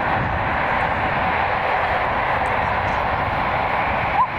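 Jet airliner engines: a steady, even rush of noise. A short rising chirp sounds near the end.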